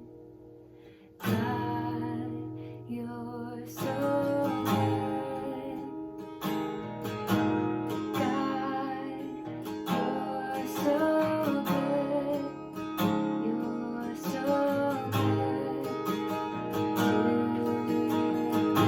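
Acoustic guitar strummed in chords. The music starts up about a second in after a brief fade, with steady rhythmic strums.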